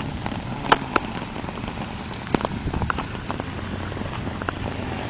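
Rain falling, a steady hiss with a few sharp taps close to the microphone, the loudest about a second in and again a little past two seconds.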